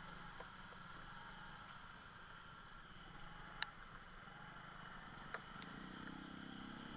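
Faint, steady hum of a motorbike engine, broken by two sharp clicks about halfway through and again a little before the end. Near the end a louder engine sound comes in.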